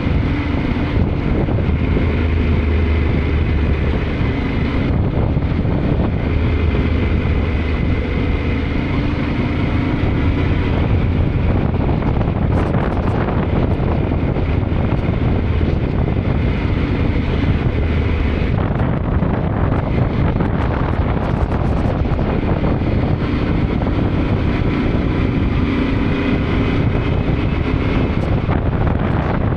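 Yamaha Ténéré 700's parallel-twin engine running while riding, with wind buffeting the microphone; the engine note changes a few times as the throttle is worked.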